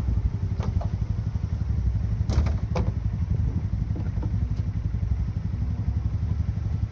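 Steady low rumble of a running vehicle engine and road noise, with a few light knocks about half a second in and again between two and three seconds in.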